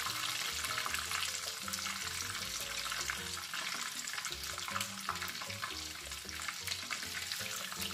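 Meatballs coated in almond flour frying in hot oil in a pan: a steady sizzle with small crackling pops. Soft background music plays underneath.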